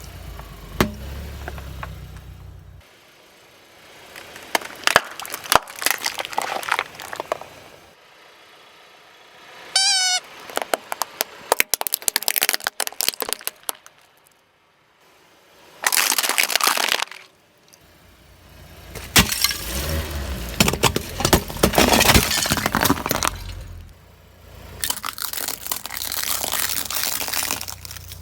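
A car tyre rolling over and crushing brittle objects in a series of short clips: repeated cracking, snapping and crunching, with a brief squeak about ten seconds in.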